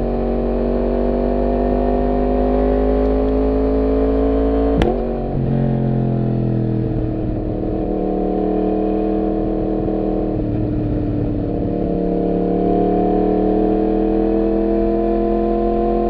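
Yamaha MT-10's crossplane inline-four engine pulling under load, its pitch slowly rising as the bike accelerates, with a sharp click and a drop in pitch about five seconds in as it shifts up a gear, then climbing steadily again.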